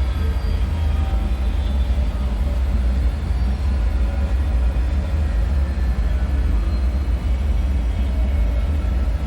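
Deep, steady rumbling drone of a dark bunker ambience, with faint drifting metallic tones above it.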